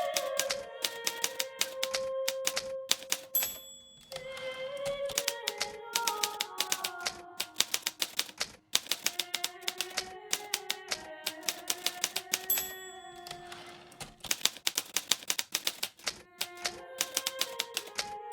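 Hermes Baby portable typewriter keys clacking rapidly in runs, with short pauses between runs, over soft background music with slow held notes.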